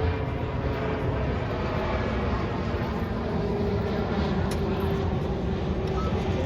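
Steady low rumble from a cruise ship's bow thrusters turning the ship, with a faint steady hum over it.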